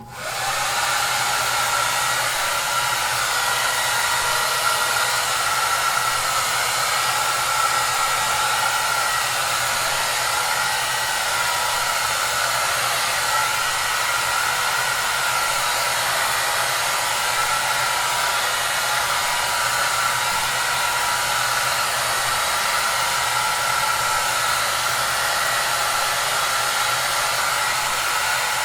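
Hair dryer running steadily: an even rushing hiss of air with a steady whine over a low hum. It comes on abruptly at the start after a moment of silence.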